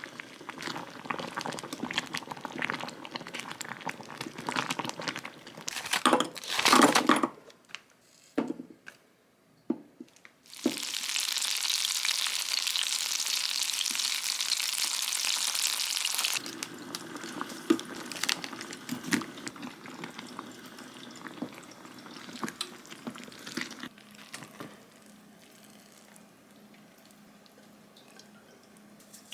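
Kitchen cooking sounds: utensils and food being handled with light clattering, and a louder burst about six seconds in. About ten seconds in comes a steady hiss lasting around six seconds, then scattered quieter knocks.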